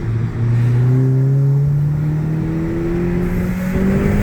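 Vauxhall Corsa VXR's 1.6-litre turbocharged four-cylinder engine, breathing through an aftermarket cat-back exhaust, accelerating hard with its pitch rising steadily for about three seconds. There is a brief break in the note near the end.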